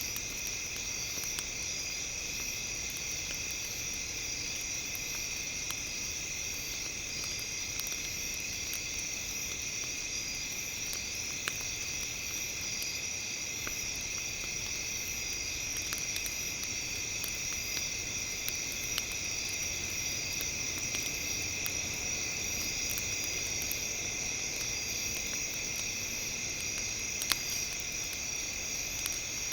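Campfire crackling with scattered sharp pops, loudest about eleven seconds in and near the end, under a steady high-pitched ringing drone.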